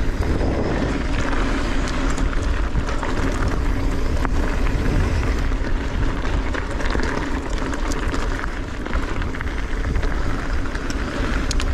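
Wind rushing over the microphone and knobby tyres rolling on dry, loose trail dirt as a Transition Sentinel V2 mountain bike is ridden at speed, with a few sharp clicks and rattles from the bike.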